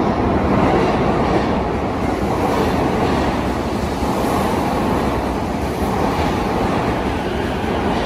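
Keiyo Line E233-5000 series electric train pulling into the underground platform at Tokyo Station, its terminus: a loud, steady running noise of wheels on rails and the passing cars.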